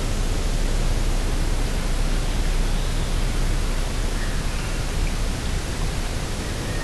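Steady wind noise with a deep low rumble, and a few faint short bird calls high above it.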